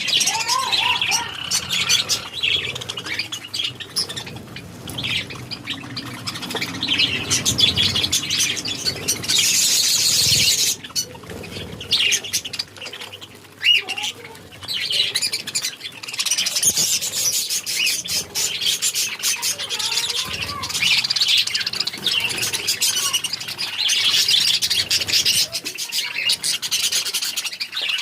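Parrots chirping and squawking without a break, many high calls overlapping.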